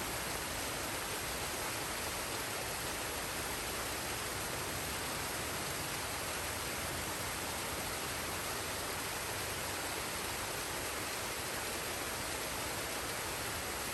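Waterfall and stream: water rushing in a steady, even hiss with no breaks.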